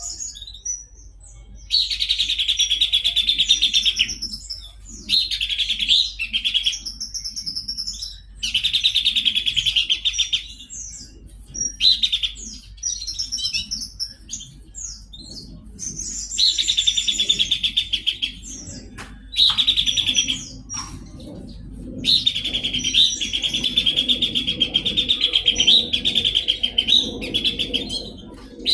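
Pelanduk semak (Horsfield's babbler) singing vigorously: long, fast trilled phrases of several seconds each, repeated again and again with short pauses between them.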